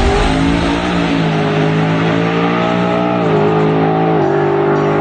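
Twin-turbo 2018 Ford Mustang's engine under hard acceleration on a drag pass, its pitch climbing steadily and then dropping in steps three times as the transmission shifts up.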